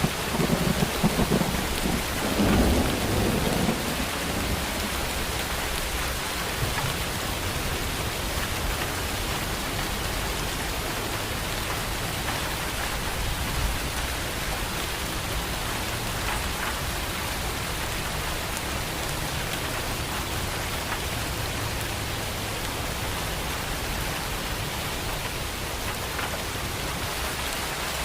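Heavy rain falling steadily, with a roll of thunder rumbling through the first few seconds and then dying away.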